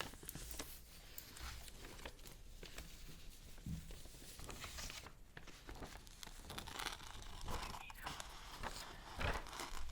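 Paper being handled close to the microphone: crinkling and rustling with many small, crisp crackles, growing louder near the end.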